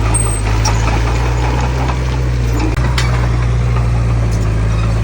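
Heavy diesel engine of earthmoving equipment running steadily with a deep, even hum, and a brief click about three seconds in.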